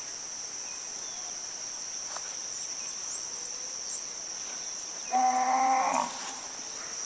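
Steady high-pitched drone of rainforest insects, with faint short bird chirps above it. About five seconds in, a single pitched animal call lasting about a second stands out as the loudest sound.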